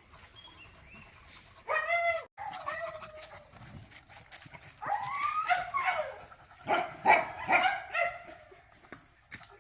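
Dogs whining and yelping in short pitched cries, one about two seconds in and a cluster from about five to eight seconds.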